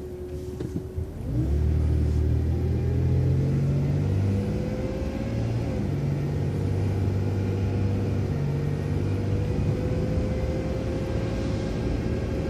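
City transit bus pulling away from a stop: the engine comes up to power about a second in, with a rising drivetrain whine that drops back once near the middle as the automatic transmission shifts up, then climbs again as the bus gathers speed.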